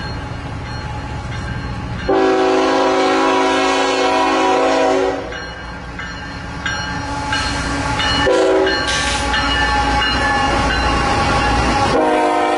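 A diesel freight locomotive's multi-note air horn sounds over the low rumble of the train: a long blast, a second long blast, a short one, then another long blast starting near the end. This long-long-short-long pattern is the standard grade-crossing warning.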